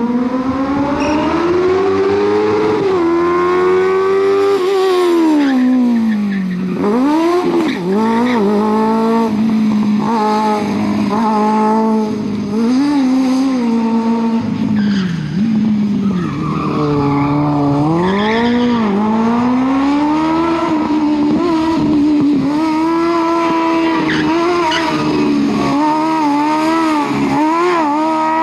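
Smart Fortwo with a Kawasaki Ninja motorcycle engine swapped in, revving hard and dropping back over and over as it is driven flat out through gear changes and corners.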